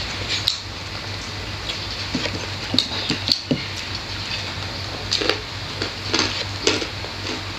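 Close-up eating sounds of people eating rice by hand: wet chewing and lip smacks in scattered short clicks, over a steady low hum.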